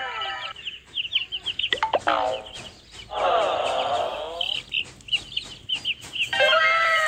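Chickens clucking and chicks peeping in many short, high chirps, with a swirling sound effect about three seconds in.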